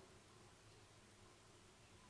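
Near silence: faint steady hiss with a low, steady hum.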